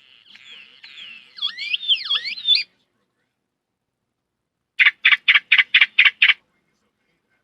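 A person imitating bird calls by mouth: a warbling whistle that slides up and down in pitch, then, after a pause, a run of about seven quick, sharp notes.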